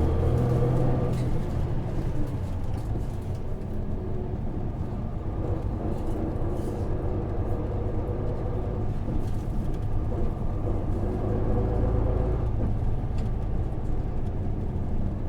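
Hino Blue Ribbon KV234 city bus's 6HK1 inline-six diesel heard from inside the cabin while the bus drives. The engine note is strongest at first, eases off about two seconds in, and builds again with rising pitch later on.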